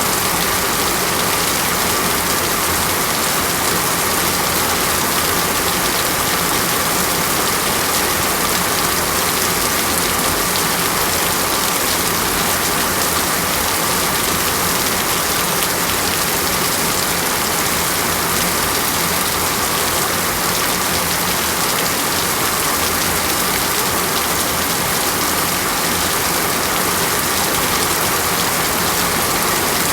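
Steady heavy rain falling on foliage and surfaces, an even hiss of drops with no single strikes standing out.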